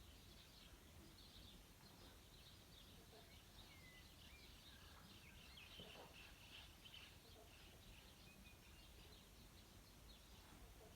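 Near silence outdoors: faint, scattered chirps of distant small birds over a low, steady background hum.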